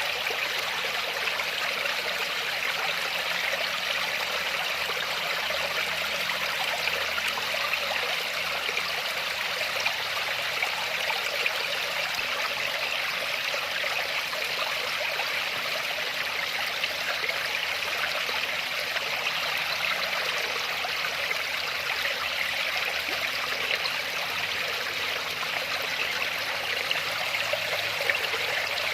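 Waterfall: water falling and splashing in a steady, unbroken rush, with most of its sound in the upper middle range.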